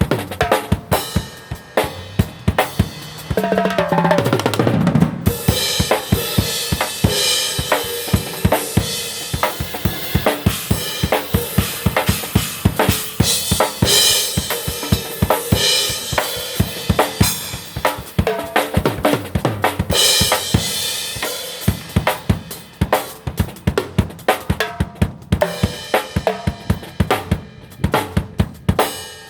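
Drum kit being played in a steady rhythmic groove of kick, snare and rim hits, with cymbals washing over much of the middle stretch. A falling pitched sweep cuts through about four seconds in.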